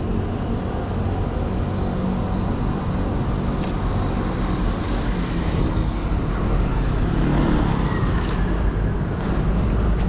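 Steady outdoor city ambience: a continuous rumble of road traffic, with a low wind rumble on the microphone.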